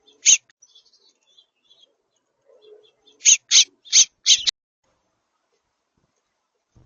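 Short, sharp bird calls close to the microphone: one, then four more in quick succession about a third of a second apart. Faint distant chirping sounds behind them.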